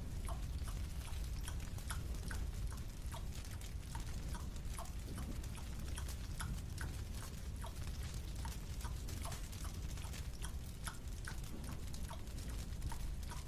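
Chewing on a marshmallow: a quick, irregular run of small wet clicks, a few a second, over a steady low hum.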